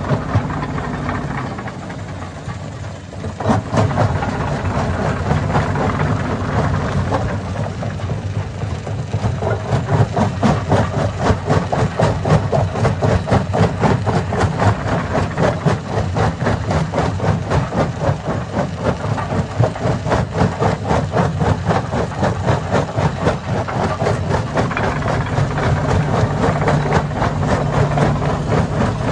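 Hammer stone crusher running under its engine's steady drone, with dense rapid clattering of rocks being broken inside it. The clatter picks up after a short lull about three and a half seconds in.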